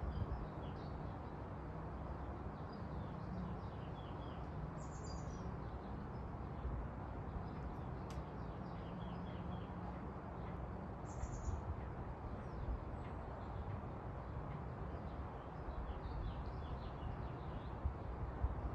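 Birds chirping on and off, with two brighter down-slurred calls, over a steady low rumble of background noise.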